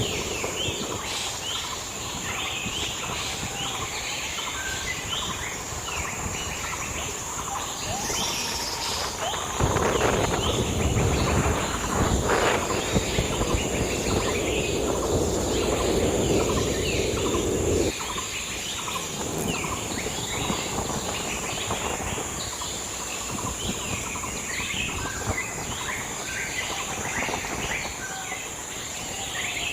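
Forest ambience: many birds chirping over a steady high insect drone. A louder rushing noise comes in about ten seconds in and stops abruptly some eight seconds later.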